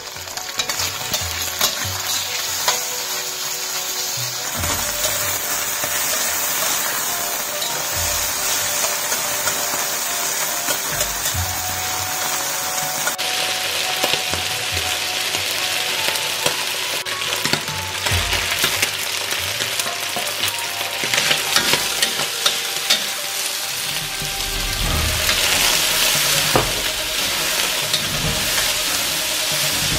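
Sliced pork frying in hot oil with garlic and ginger in a wok: a steady sizzle with a spatula clicking and scraping against the wok as it is stir-fried. About halfway through the sizzle turns brighter and hissier, and it grows louder near the end as capsicum strips are tossed in.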